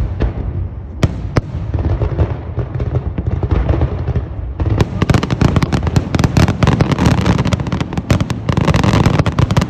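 Fireworks display: a steady low rumble of booms with sharp bangs, which come thick and fast from about halfway through.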